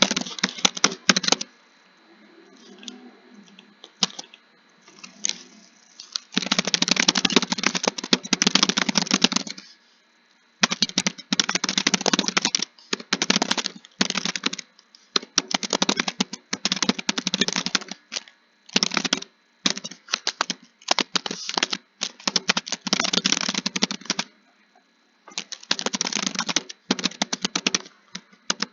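Fast typing: keys clattering in quick runs of one to three seconds, with short pauses between. After the first second there is a lull of about four seconds before the typing picks up again.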